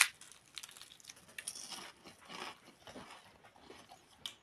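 A bite into a crisp fried pastry right at the start, then soft crunchy chewing.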